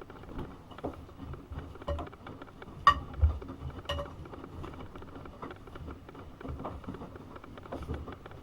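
AEG Öko-Lavamat 72520 washing machine drum turning with the wet laundry tumbling and splashing, low thuds and sharp clinks falling about once a second, the loudest two about three and four seconds in.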